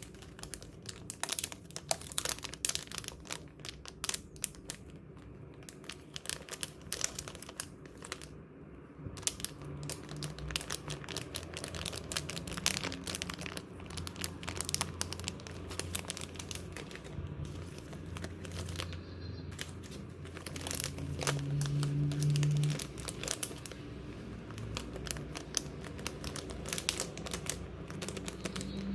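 Packaging being handled and unwrapped: a continuous irregular crinkling and crackling with small clicks. A low hum rises in the middle and is loudest a little past two-thirds of the way through.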